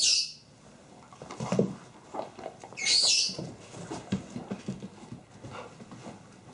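Pet dogs moving about and making small sounds, with two short, loud, high-pitched bursts of noise about three seconds apart.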